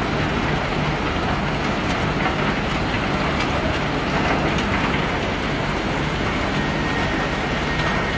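A self-unloading ship's machinery runs steadily while it unloads cobblestones, with a dense clatter of pebbles throughout.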